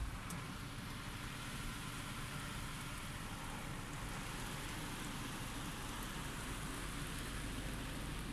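Automatic car wash spraying water over a car: a steady hiss of spray hitting the car's body and glass.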